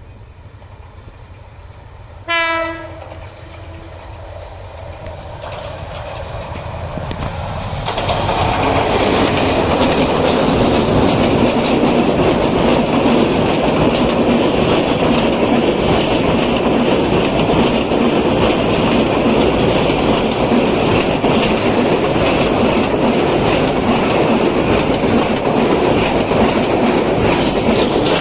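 A train's horn gives one short blast about two seconds in. Then the train approaches: the rumble builds over several seconds into the loud, steady noise of coaches rolling past, with wheels clattering over the rail joints.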